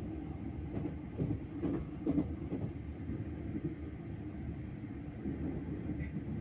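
Passenger train in motion: a steady low rumble, with a few short knocks about one to two and a half seconds in.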